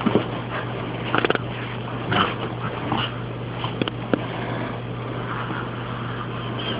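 English bulldog puppy making short, noisy breathing sounds and scuffles at play, mostly in the first few seconds, over a steady low hum.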